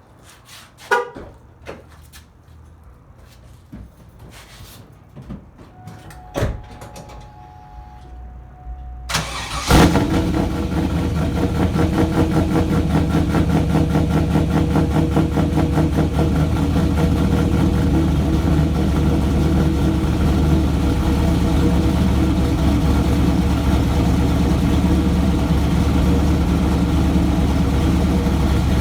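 A few clicks and knocks and a brief electronic tone, then about nine seconds in the cammed 5.7-litre LS1 V8 of a 2000 Camaro SS cranks and fires on a cold start with a loud flare. It then settles into a loud, pulsing idle through long-tube headers and a near straight-piped 3-inch exhaust.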